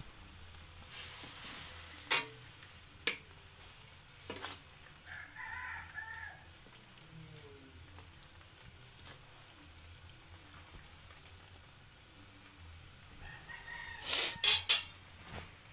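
Masala sizzling as it fries in oil in an aluminium kadai, with a few sharp clicks of a steel ladle knocking the pan as it is stirred. A rooster crows twice, about five seconds in and again near the end.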